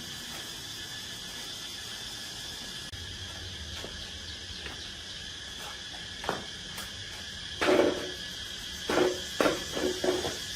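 Steady high-pitched chirring of insects, with a few sharp knocks in the second half, the loudest about eight seconds in and a quick cluster near the end.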